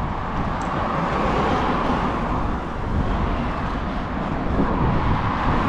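Steady rushing road and wind noise heard from a bicycle riding along a road, with traffic noise and a low rumble.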